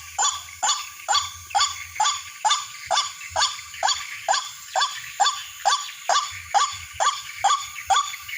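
White-breasted waterhen call played from a bird-call speaker as a lure: short, loud downward-sliding notes repeated evenly, nearly three a second.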